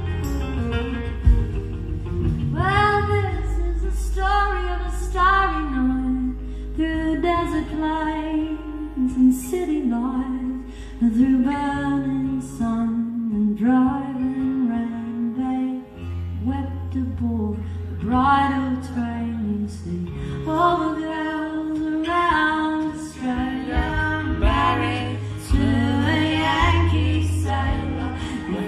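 Live folk band performance: a woman singing over acoustic guitar and sustained bass notes, recorded on a camera phone.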